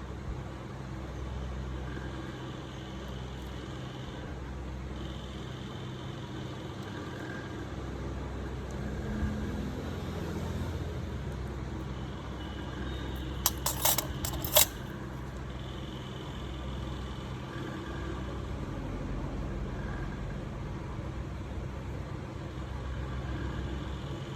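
Steady low background rumble, with a higher hiss that comes and goes and three sharp clicks in quick succession a little past the middle.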